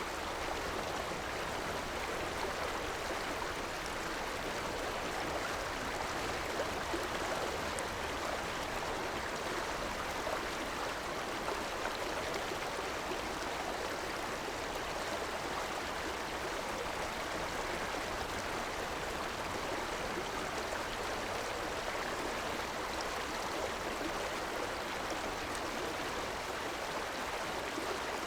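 Steady rushing and gurgling of a stream's flowing water, even and unbroken throughout.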